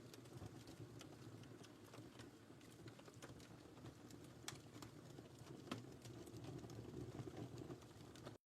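Wood fire crackling in a fireplace, faint: a steady low rumble of flames with frequent small crackles and a couple of sharper pops in the middle. It cuts off suddenly just before the end.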